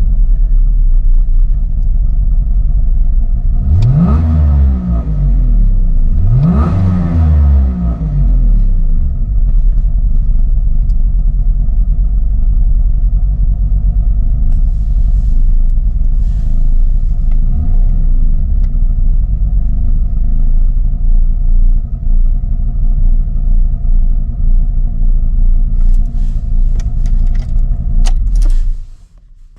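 1972 Suzuki Fronte Coupe's 360cc three-cylinder two-stroke engine, converted to fuel injection, idling steadily. It is revved twice about four and six seconds in and lightly once more later. Near the end the engine is switched off and cuts out suddenly, followed by a few clicks.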